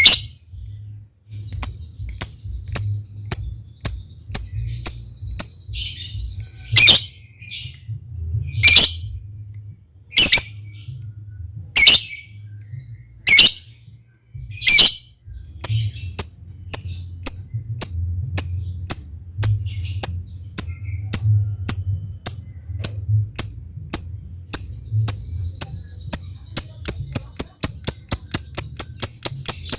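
Lovebird giving sharp, high ticking chirps: a few loud calls every second or two in the first half, then a steady run of rapid chirps that quickens toward the end, the 'ngetik' calling of a lovebird in full song.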